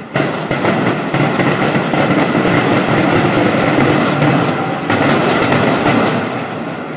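Fireworks going off in a dense, continuous crackle that starts sharply and eases off near the end.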